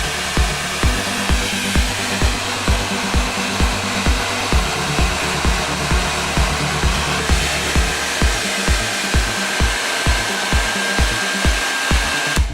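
Aresa AR-3222 hand-held hair dryer running: a steady rush of air with a faint whine, cutting off at the very end. Electronic dance music with a kick beat about twice a second plays underneath.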